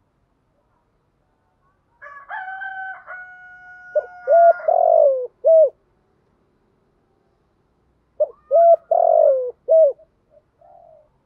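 Spotted dove cooing: two phrases of short hooked coo notes, each with one longer falling note, a few seconds apart. A steady, held tone comes just before the first phrase.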